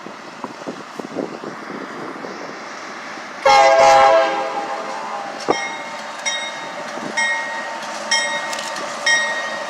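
Freight locomotive horn sounding one short, loud chord blast. It is followed by a bell ringing steadily about once a second over the rumble of the approaching train.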